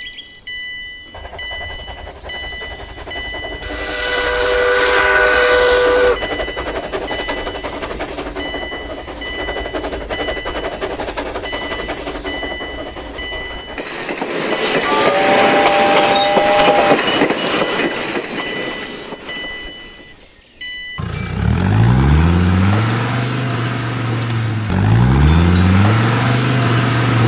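Train running along with two held horn blasts, the first about four seconds in and the second about fifteen seconds in. After a short drop about twenty seconds in, a vehicle engine revs up again and again, about three rising revs.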